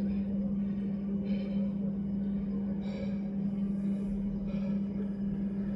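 A steady low hum with faint background noise underneath.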